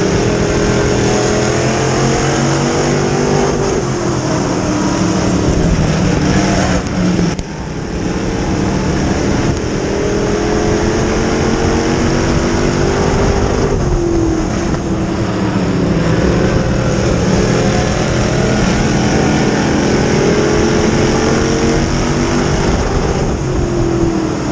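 Dirt-track modified race car engines at racing speed, rising in pitch along each straightaway and falling off into the turns, repeating about every six or seven seconds.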